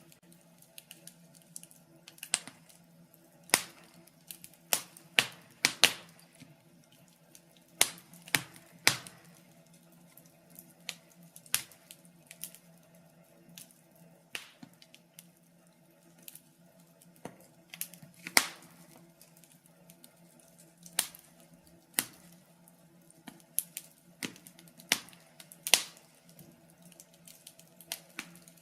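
Log fire in a fireplace crackling, with irregular sharp pops and snaps of varying loudness, several every few seconds, over a faint steady hum.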